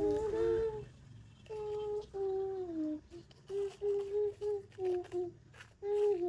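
A child humming a simple tune: a few held notes, then a quick string of short repeated notes.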